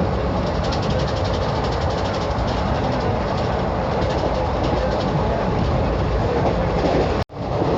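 Train running with a steady rumble and rail noise, faint fine clicking in the first seconds. The sound cuts out abruptly for a moment near the end.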